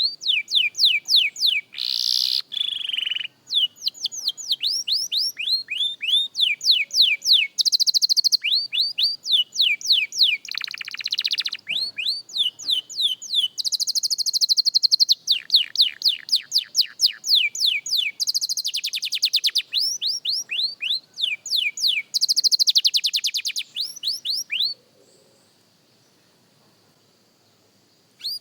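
Young domestic canary singing a long unbroken song: rows of quick downward-sweeping notes that switch every second or two to fast, dense trills. The song stops abruptly a few seconds before the end.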